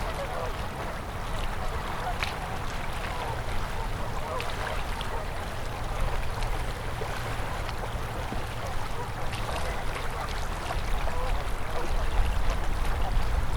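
Winter river water flowing steadily over and around ice, with ducks quacking now and then.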